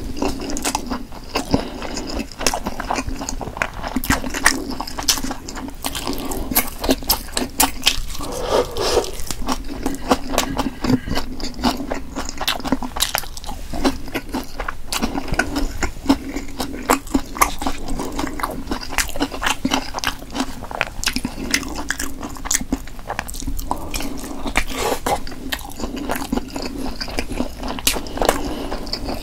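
Chewing and biting into Korean blood sausage (sundae), with many sharp wet mouth clicks.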